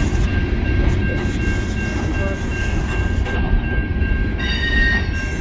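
Coal train's hopper cars rolling past: a steady heavy rumble of wheels on rail, with a thin steady high ring above it.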